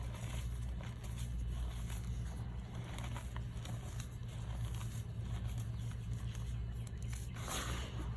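Pressed blocks of gym chalk and baby powder crunching and crumbling, with small scattered crackles and one louder, grainy crunch near the end. A steady low hum runs underneath.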